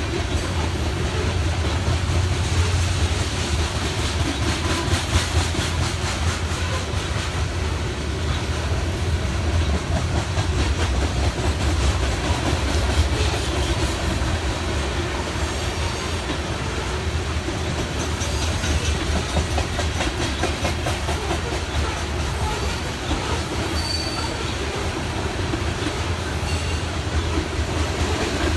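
A loaded BNSF grain train's covered hopper cars rolling past in a steady rumble of wheels on rail. Short high-pitched wheel squeals come in from about halfway through.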